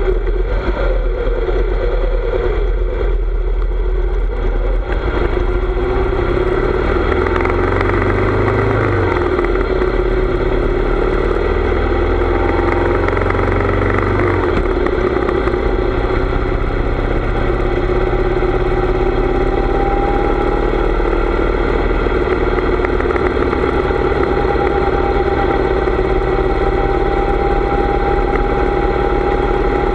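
Harley-Davidson V-twin engine running as the motorcycle is ridden, its pitch rising and falling for several seconds in the first half, then holding steady.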